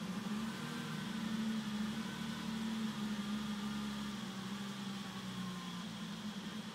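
BMW E34 M5's S38 straight-six engine idling, a steady drone that rises slightly in pitch and level about half a second in and settles back near the end. This is the idle that the owner presents as a rough idle problem.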